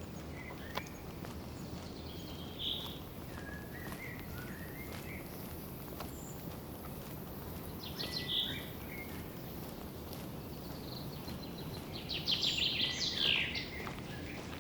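Forest birds calling over a steady low outdoor rush: a few short calls in the first half and a quick run of chirps near the end, the loudest part. A few faint footstep clicks on the trail.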